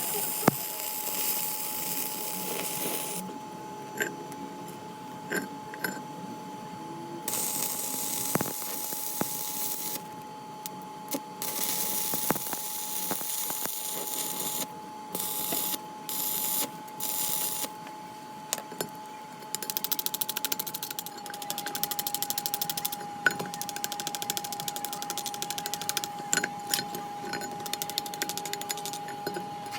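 Intermittent workshop tool noise on metal: several hissing bursts of a few seconds each, then a fast rattling crackle lasting about six seconds, over a steady high whine.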